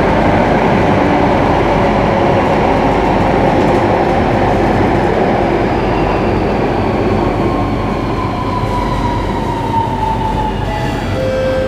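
Electric metro train running, heard from inside the car, with the rumble of wheels on track. From about halfway through, the traction motors' whine falls steadily in pitch as the train slows, and a new set of steady whining tones starts near the end.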